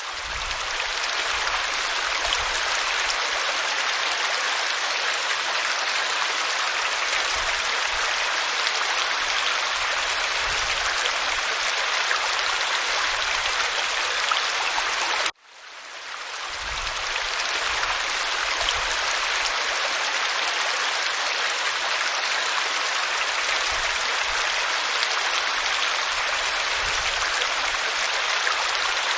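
Waterfall splashing onto rock: a steady, even rush of falling water. About halfway through it drops out suddenly for an instant and fades back in over a second or two.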